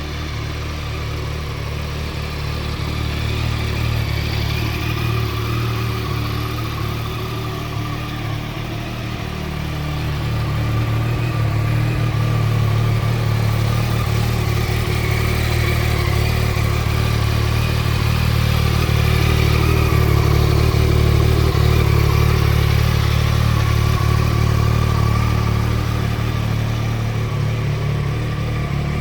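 Yamaha Tracer 9 GT's 890 cc three-cylinder engine running at idle, its note swelling and easing slowly a few times.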